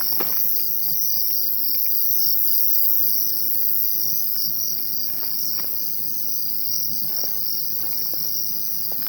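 Crickets chirping in a dense, steady night chorus, a high, rapidly pulsing trill that goes on without a break.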